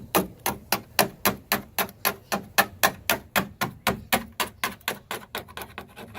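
Rapid, even tapping on the boat's fiberglass hull, about four to five knocks a second, growing fainter over the last two seconds.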